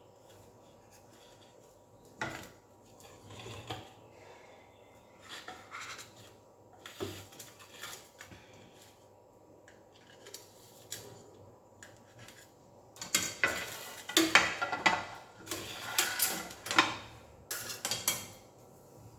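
A knife and dishes clinking and scraping as the cake is cut into pieces and served, with scattered scrapes at first and a busier, louder stretch of clatter in the last third.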